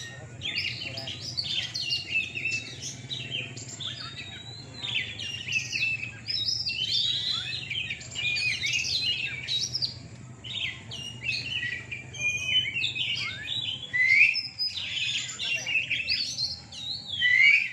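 Oriental magpie-robins singing, several birds at once in a dense, unbroken stream of varied whistled phrases and trills. A low steady hum runs underneath.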